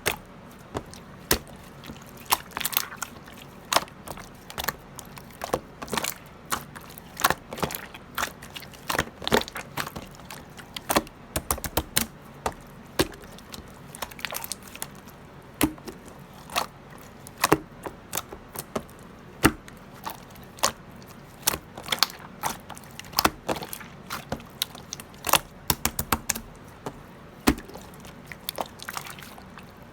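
Irregular sharp clicks and taps, one to three a second, over a faint steady background.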